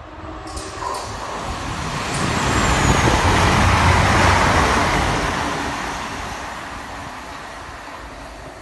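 Siemens Desiro Class 450 electric multiple unit passing through a station without stopping, its wheels running on the rails. The noise swells as it approaches, is loudest about three to four seconds in as it goes by, then fades as it draws away.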